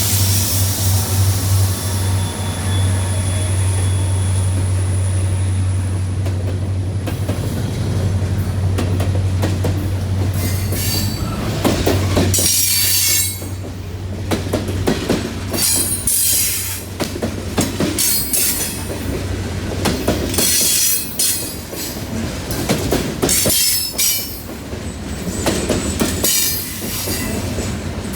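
Blue Ridge Southern train passing: a steady low diesel locomotive drone for about the first twelve seconds, then the rail cars rolling by with repeated wheel squeals and clicking over the rail joints.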